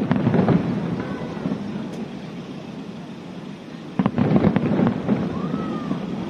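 Fireworks bursting in two volleys of sharp cracks and crackle: one at the start that dies away within about a second, and a denser one about four seconds in.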